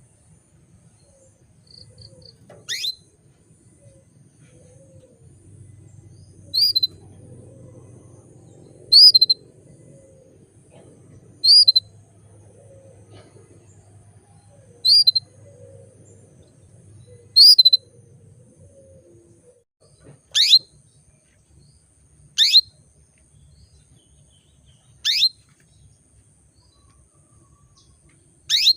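Female canary giving short, sharp single chirps, each a quick falling note, one every two to three seconds, about ten in all. These are the calls of a hen in breeding condition calling to a male.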